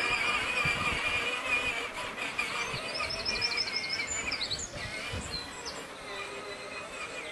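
Outdoor background noise with a quick run of high bird chirps about three seconds in.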